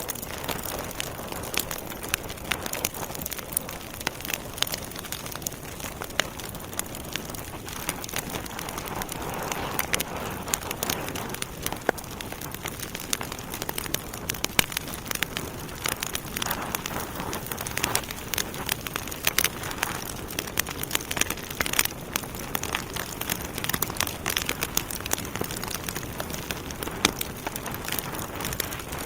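Wood fire of burning logs in a fireplace, crackling steadily with irregular sharp pops and snaps over a soft hiss.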